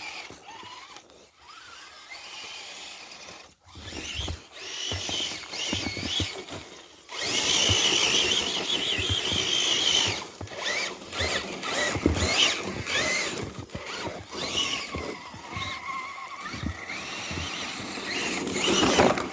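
Several RC crawler trucks driving, their small electric motors and gearing giving a whine that rises and falls in pitch with the throttle. The whine is loudest from about 7 to 10 seconds in, with scattered clicks and rustle.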